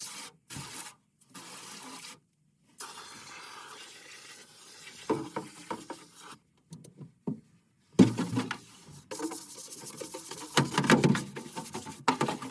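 Scraping and rubbing from hands-on cleaning of furnace parts, in short bursts that start and stop abruptly, with a few sharper clatters in the second half.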